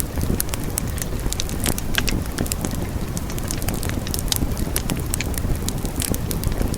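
Wood fire burning in a fireplace: a steady low rumble of flames with frequent sharp crackles and pops of burning wood.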